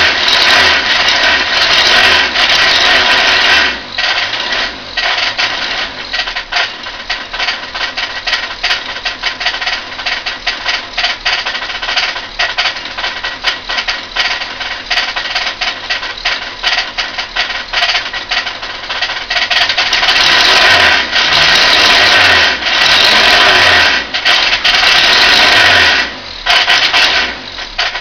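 Ford Capri's 2.0 Pinto single-overhead-cam four-cylinder engine running with a rapid, constant knocking, louder for a few seconds at the start and again twice near the end. The owner cannot tell whether the knock is bottom-end failure in the newly fitted engine or something knocking elsewhere.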